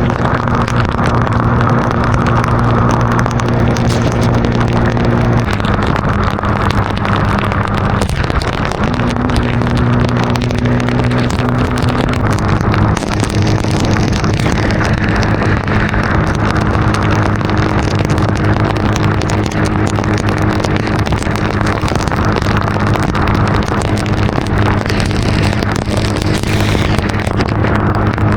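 Motorcycle engine running steadily at road speed, with wind rushing over the microphone. The engine note shifts a few times, with a short break about eight seconds in, as the rider changes gear or eases the throttle.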